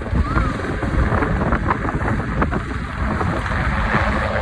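Air-ambulance helicopter running close by, a dense low rumble with wind buffeting the microphone.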